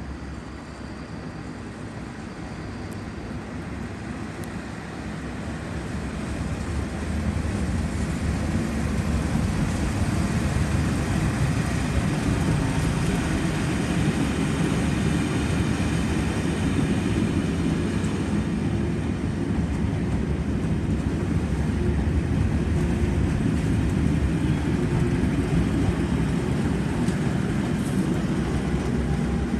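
Colas Class 37 diesel locomotive's English Electric V12 engine on a test train, drawing near and growing louder over the first seven or eight seconds, then a steady loud low engine drone as it passes.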